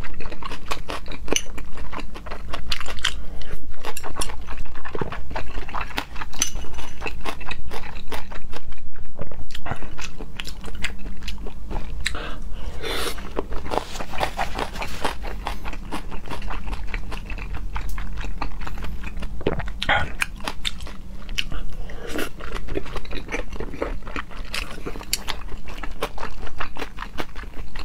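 Close-miked chewing of raw salmon sashimi: a dense, irregular run of small wet mouth clicks and smacks.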